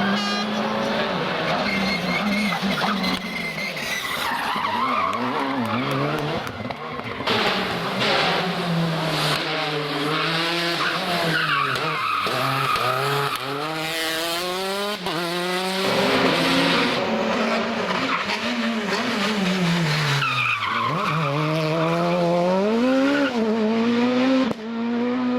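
Rally cars driven flat out on a special stage. The engine pitch climbs and drops again and again with gear changes and lifts off the throttle, and the sound changes abruptly a few times as one car gives way to the next.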